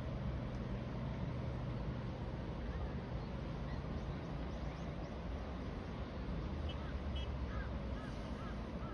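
Steady hum of distant city traffic. Over it, from about halfway through, a bird gives a run of short repeated chirps.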